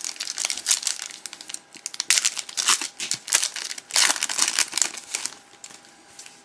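Plastic trading-card pack wrapper crinkling and tearing as it is ripped open and handled, in dense bursts that die down about five seconds in.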